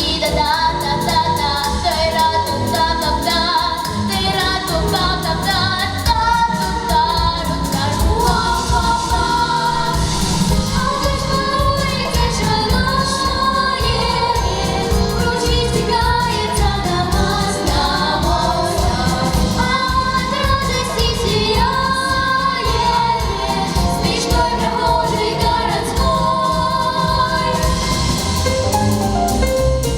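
A song sung by a group of voices in unison, over instrumental accompaniment with a steady beat.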